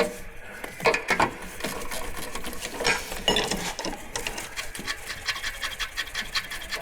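Hand ratchet wrench clicking rapidly as a bolt is turned, with a few louder metal knocks.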